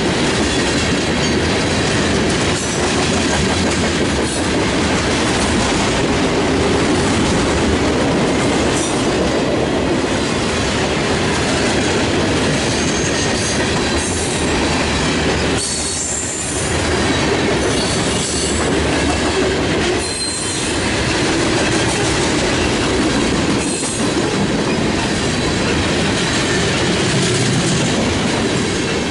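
Norfolk Southern freight train of tank cars and hoppers rolling past: steady rumble and clatter of steel wheels on the rails, briefly dipping a few times as gaps between cars go by.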